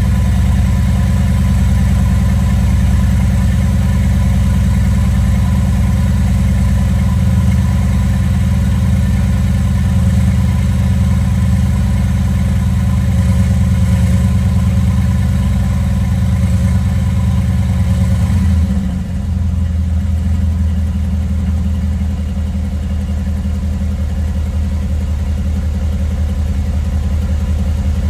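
Mercedes-AMG GT S's twin-turbo 4.0-litre V8 idling steadily on a cold start. About two-thirds of the way through, the high cold idle steps down to a lower, slightly quieter idle.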